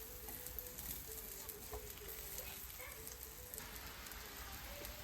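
Typhoon rain pattering steadily, with scattered small ticks.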